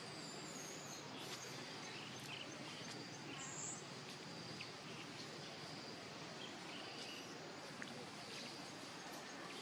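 Outdoor natural ambience: a steady low hiss with a faint, continuous high insect tone. A few short bird chirps and a wavy bird call come in briefly near the start.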